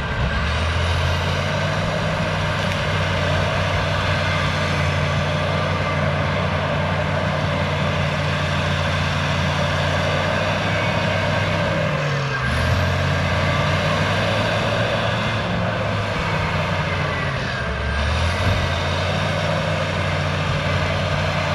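Cat D6H bulldozer's six-cylinder diesel engine working steadily under load as the dozer digs around a tree's roots. The engine note sags briefly and recovers twice, about 12 seconds in and again near 18 seconds.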